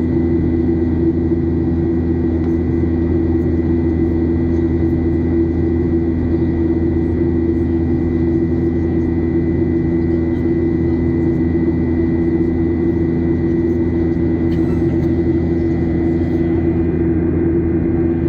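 Boeing 737-800's jet engines heard from inside the passenger cabin: a loud, unchanging drone with a steady low hum and a thin, high whine.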